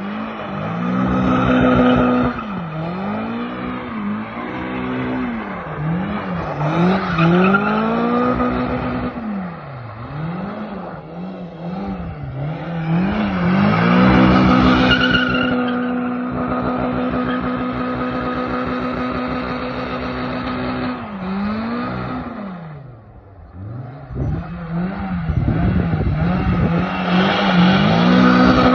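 VAZ-2107 with a swapped-in 16-valve four-cylinder engine being revved over and over, its pitch rising and falling in quick swings, then held high and steady for several seconds in the middle, dropping away briefly and revving again near the end.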